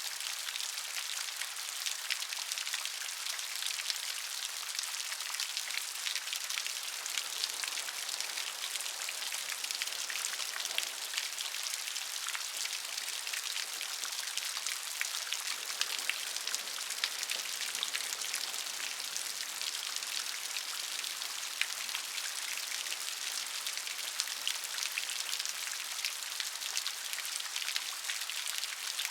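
Steady rain with many individual drops tapping a hard surface, a dense high-pitched patter throughout.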